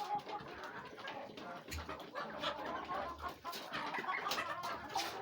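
A backyard poultry flock of chickens, turkeys and ducks clucking and calling softly, with scattered small clicks and scuffs.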